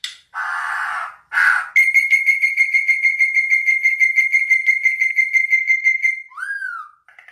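A bird singing: two short harsh notes, then a long, rapid trill held on one high pitch for about four seconds, ending in two short curving notes.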